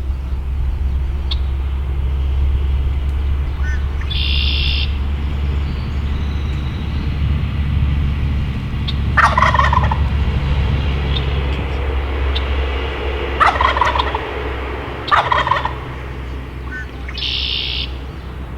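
Wild turkey gobbler gobbling three times, short rattling gobbles about nine, thirteen and fifteen seconds in, over a steady low rumble. Two brief high-pitched sounds come near the start and near the end.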